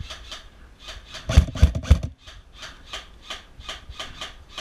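Footsteps of a player moving over rough ground, with gear rubbing: a run of rhythmic scrapes about three a second, with a few heavier thuds about a second and a half in.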